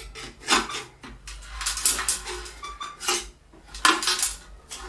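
Metal clattering and scraping as a homemade cash safe is forced open by hand, in about five separate strokes, one with a brief ringing note near the middle.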